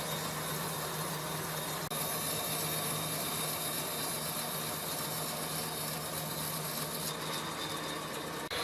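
A power tool running steadily, a continuous mechanical whir with a low hum, broken by two brief cuts.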